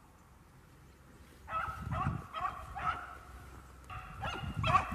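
Rabbit hounds baying on a hot trail, a quick run of short, pitched bays about three a second. It starts about a second and a half in, pauses briefly, then picks up again: the dogs are running the rabbit.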